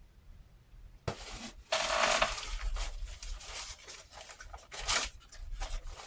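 Close-miked eating sounds: irregular crunching and smacking chewing, starting about a second in, with a louder, rougher burst near two seconds.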